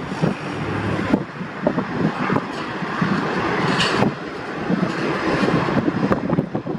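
Steady rushing rumble of jet airliner engines, with wind buffeting the microphone.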